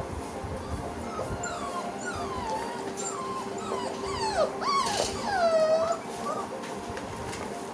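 Newborn Rottweiler puppies whining: a string of short, high, mostly falling whines that grow louder and longer near the end, the last one drawn out.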